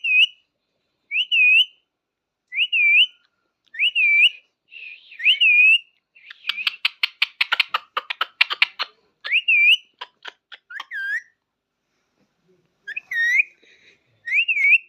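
Pet parrot whistling a short call over and over, each one dipping and then rising, roughly every second and a half. In the middle it breaks into a burst of rapid clicking chatter for a few seconds.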